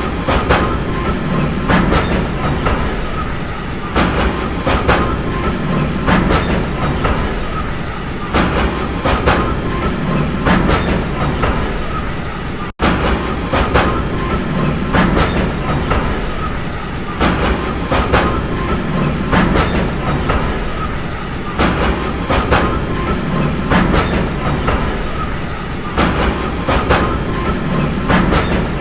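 Train running along the track: a steady rumble with rhythmic clickety-clack as the wheels pass over rail joints, and a faint high squeal from the wheels. The sound drops out for an instant about 13 seconds in.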